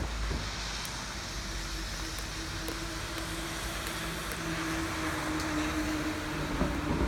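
Steady rain falling, an even hiss with faint drop ticks, over a low steady hum.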